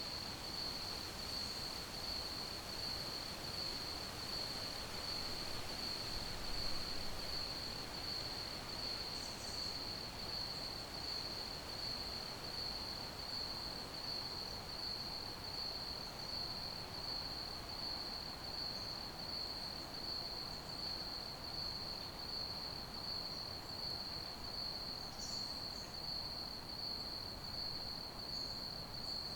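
Crickets chirping in a steady, evenly pulsing high trill that never breaks, over a soft even hiss. A few brief, fainter, higher chirps come now and then.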